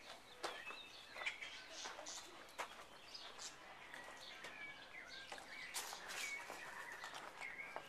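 Small birds chirping faintly in short calls and quick rising and falling notes, with a few sharp clicks among them.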